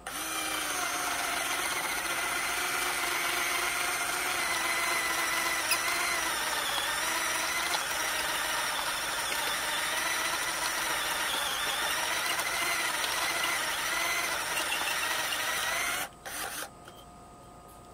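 Power drill running steadily with a whining motor, boring a hole through a pine board. Its pitch wavers slightly under load, and it stops suddenly about sixteen seconds in.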